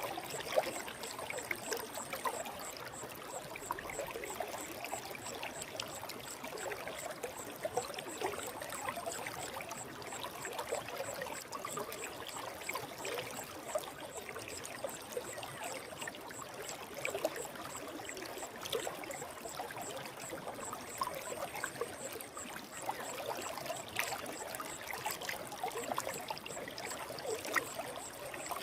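Stream water flowing and babbling over rocks, a steady even rush with small splashing flickers.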